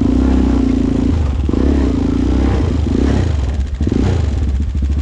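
ATV engine running, with a steady low hum and a louder, higher note that swells and drops back several times as the throttle is worked.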